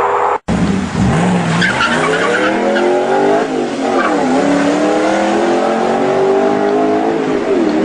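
Supercar engine accelerating hard away, its pitch climbing, dropping and picking up again about halfway through as it shifts gear, then holding high and easing off near the end. Tyres squeal briefly as it sets off.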